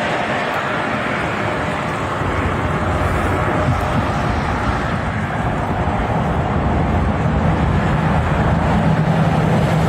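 Steady road and engine noise from a car moving at highway speed, with a low hum that grows louder in the second half.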